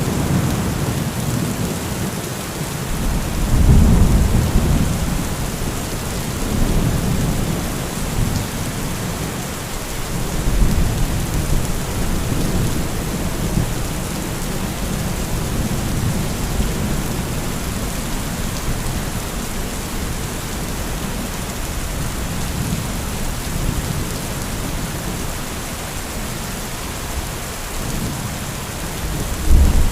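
Heavy thunderstorm: steady downpour of rain with low, rolling thunder rumbles. The strongest rumble comes about four seconds in, with smaller ones around seven and eleven seconds, and another builds just at the end.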